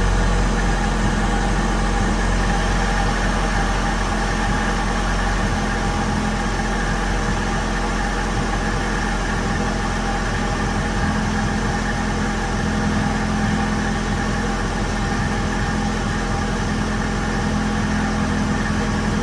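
Honda Integra B-series four-cylinder idling steadily, running through a freshly installed Toda-style header and custom 2.5-inch exhaust.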